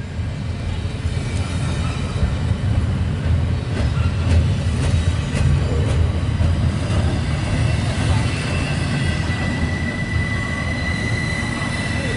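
Double-stack intermodal well cars rolling past at close range: a steady loud low rumble of steel wheels on rail, with a few sharp clanks. A thin, steady high wheel squeal sets in about two-thirds of the way through.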